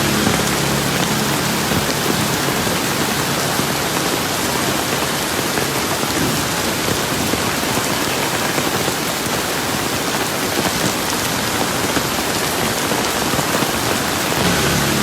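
Steady rain falling, an even, dense hiss of drops striking surfaces with no let-up; a faint low hum sits under it at the start and again near the end.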